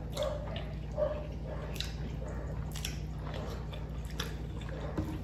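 People chewing food, with soft mouth smacks and a few light clicks scattered through, over a steady low hum.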